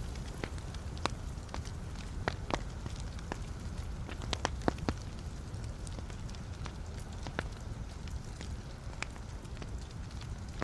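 Wood fire burning in a fireplace: a steady low rumble with irregular sharp crackles and pops from the burning logs, most of them clustered about four to five seconds in.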